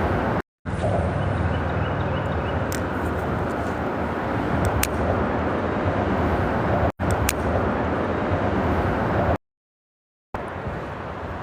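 Steady traffic noise from the freeway bridge overhead, blended with the rush of the creek's flowing water. The audio drops out completely three times: briefly near the start, for an instant about seven seconds in, and for about a second near the end.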